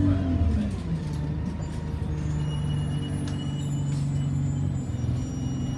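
Alexander Dennis Enviro200 single-deck bus heard from inside the cabin: the diesel engine's rumble drops about half a second in, then runs at a steady low note. A faint high tone and a couple of sharp clicks come partway through.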